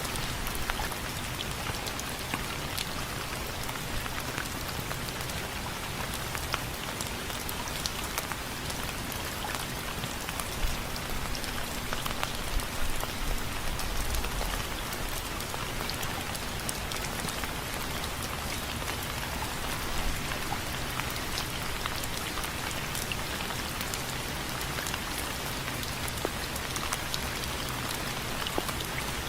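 Steady rain falling on window frames: an even hiss with many sharp individual drops ticking throughout.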